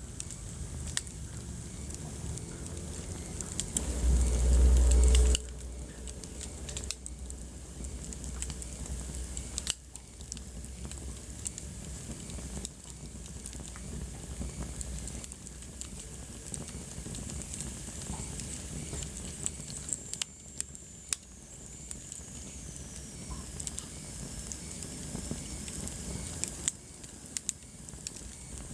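Wood fire burning in a fireplace, crackling with many small sharp pops over a low rushing of flame. About four seconds in, a louder low rumble lasts just over a second. Later a faint high whistle slowly falls in pitch.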